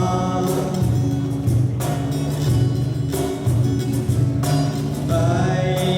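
Live instrumental passage of a rock song: guitars strummed in chords over sustained low notes, with a fresh chord stroke about every second and no singing.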